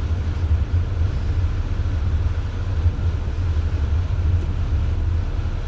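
Steady low rumble of a 4x4 driving, heard from inside the cabin, with an even hiss above it.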